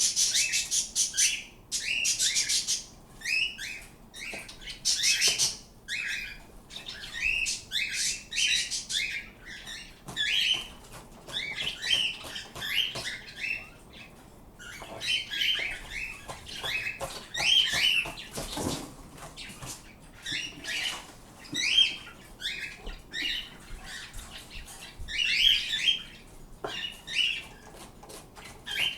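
Pet birds calling over and over with short chirps and squawks that come in clusters and pause between them. The first couple of seconds hold harsher, screechy calls.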